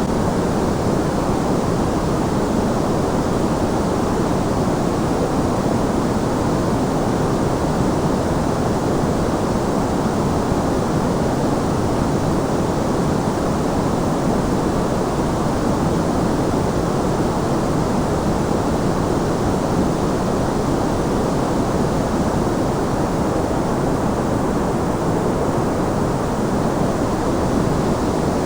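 Continuous white noise for sleep: an even, unchanging hiss weighted toward the low end, with no breaks or changes.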